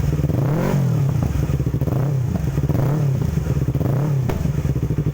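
Yamaha R25 parallel-twin engine breathing through an aftermarket R9 Valencia racing exhaust, revved in a series of short throttle blips whose pitch rises and falls, then settling back to an even idle about four seconds in.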